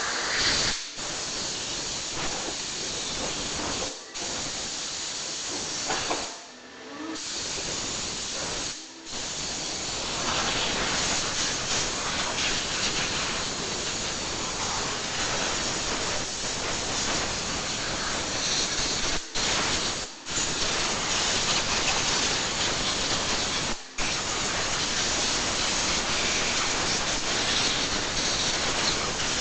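Compressed-air blow gun blowing water out of a freshly washed engine bay: a steady loud hiss, cut briefly several times as the trigger is let go.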